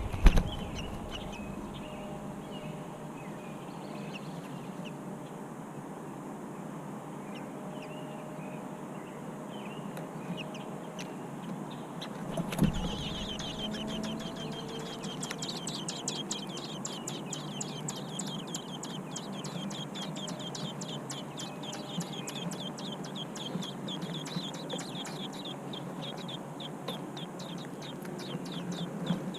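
American robin nestlings calling: faint high chirps, then a thump about halfway through, after which the calls turn into a rapid, continuous run of high chirps, many per second, typical of begging at feeding time.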